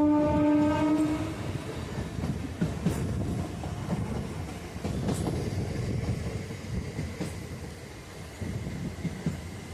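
Passenger train's horn holding one steady note, which stops about a second in. The train then runs along the track with a steady rumble and a few sharp clacks of the wheels over rail joints.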